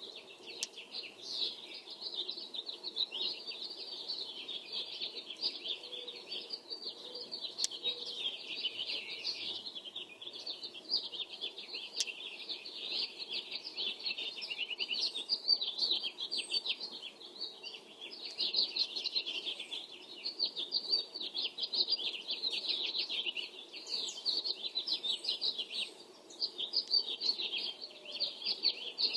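Dawn chorus of birds: dense, high-pitched chirping and song that never lets up, over a faint steady hum.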